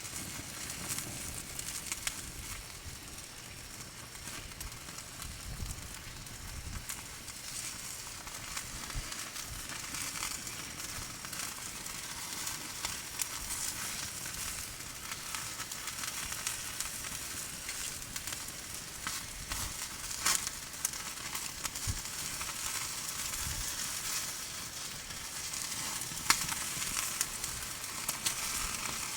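Campfire cooking: a steady sizzling hiss with crackling and occasional sharp pops.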